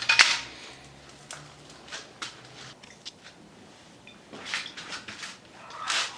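Handling noises from work on a brake caliper: a sharp scrape right at the start, then scattered light clicks, and two short scraping rustles near the end.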